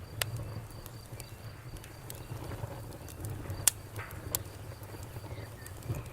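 Wood campfire crackling: a few sharp pops, the loudest a little past halfway, over a low steady rumble of the burning fire.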